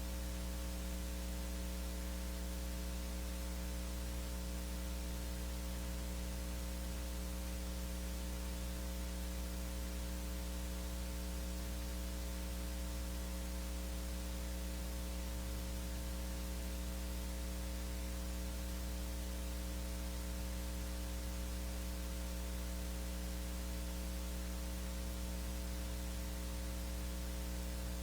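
Steady electrical mains hum with a stack of buzzing overtones and an even hiss, unchanging throughout.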